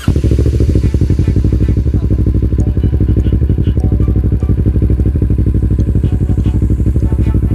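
Kawasaki Ninja 650's parallel-twin engine idling steadily through a Yoshimura R77 exhaust, a rapid, even pulsing beat.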